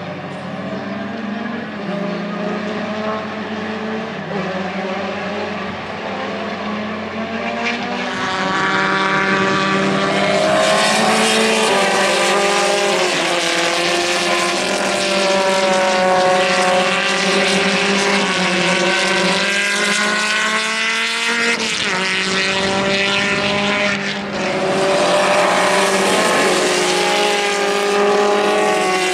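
Ariel Atom race car engine at high revs on track, its pitch climbing and dropping again and again through gear changes, getting louder about a third of the way in. A steady low hum runs underneath.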